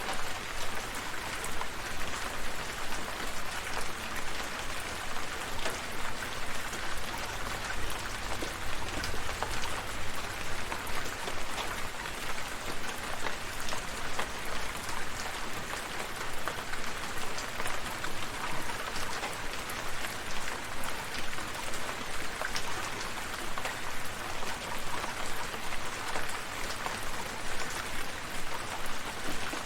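Steady rain falling, with many separate drops striking close by over a continuous hiss.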